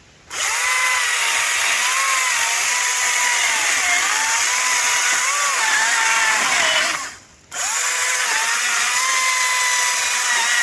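ECHO DCS-2500T 56 V battery electric chainsaw running and cutting a tree trunk: a steady high motor whine whose pitch dips and wavers as the chain bites into the wood. About seven seconds in the trigger is released for half a second and the saw starts again.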